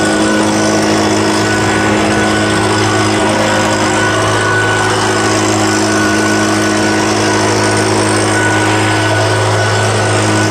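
A small engine running steadily at constant high speed.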